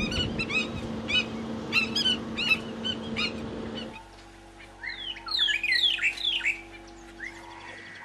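Wild birds calling: a run of short, sharp repeated calls over a steady low hum. After a cut about four seconds in, a fast burst of down-slurred whistled notes from a white-browed robin-chat singing.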